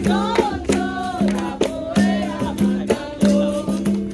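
Capoeira roda music: a berimbau playing a repeating rhythm of short held notes, with pandeiro tambourine strokes and voices singing a call over it.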